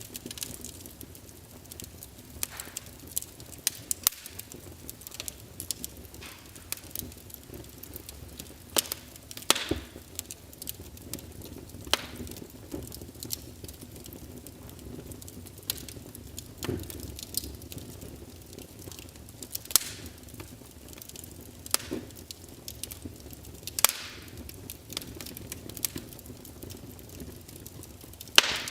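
Wood fire crackling, with irregular sharp pops every second or so, a few much louder than the rest, over a steady low background.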